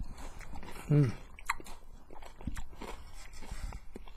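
A person chewing crunchy food, with many small crunching clicks. About a second in comes a short hum-like voice sound that falls in pitch.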